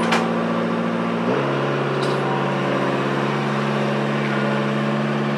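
Tractor diesel engine running steadily. Its speed steps down about a second in, then holds at a lower, even idle.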